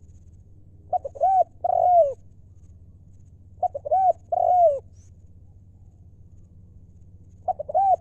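Spotted dove cooing: three phrases about three seconds apart, each a few quick short notes followed by two longer arched coos, the last phrase starting near the end.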